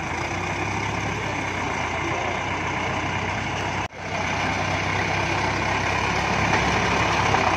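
Diesel engine running steadily under load, the sound cutting out for an instant about four seconds in and growing a little louder near the end.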